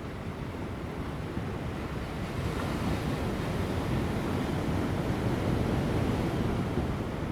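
Ocean waves crashing on rocks, a continuous surf wash that swells into a heavier break about halfway through, with light wind on the microphone.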